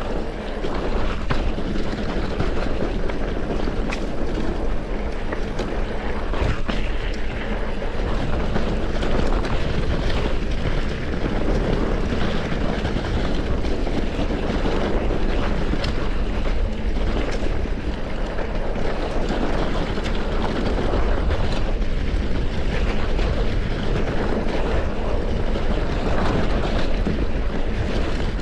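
Mountain bike in motion heard through an action camera's microphone: steady wind noise and tyre rumble over a dirt trail. Occasional knocks and rattles come from the bike over rough ground.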